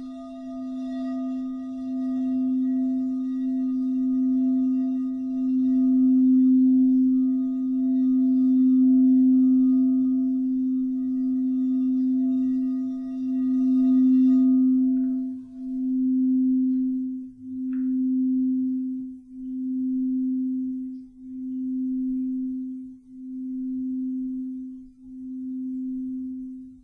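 Crystal singing bowl for the root chakra ringing with one low, steady tone that swells through the first half. About fifteen seconds in, its higher overtones drop away, and the note pulses about once every two seconds as it slowly fades.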